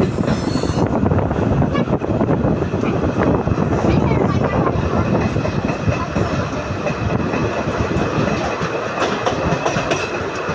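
Passenger train coach running on the rails, heard from a window seat inside: a steady rumble of wheels and track with clickety-clack from the rail joints, and a thin, steady high whine above it.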